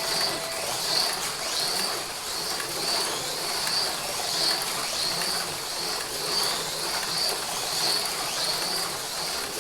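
AFX Mega G+ HO slot cars running flat out on the track, their small electric motors and pickups making a steady rough buzz with a high whine that swells and fades about every two-thirds of a second.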